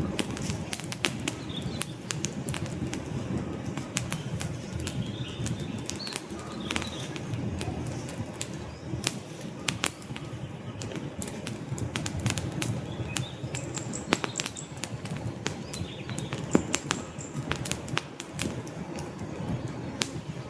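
Wood fire crackling, with many sharp irregular pops over a steady low rumble of burning logs, and a few faint high squeaks now and then.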